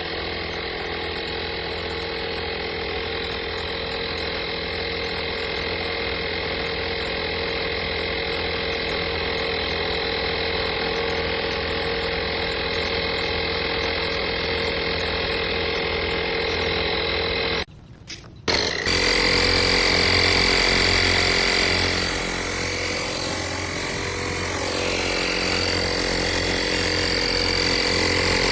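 FADAKWALT 12V portable tire inflator's compressor running steadily with a mechanical drone. It drops out briefly a little past halfway, then runs on with a more prominent high whine.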